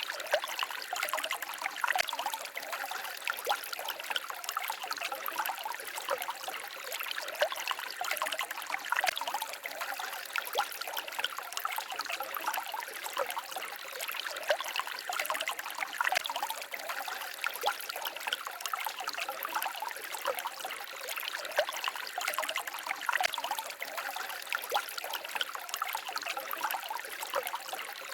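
Small forest stream babbling and trickling steadily over stones, a continuous splashy wash with many little bright splashes.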